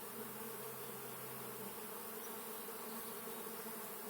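Swarm of European honeybees buzzing in the air all around: a steady, continuous hum.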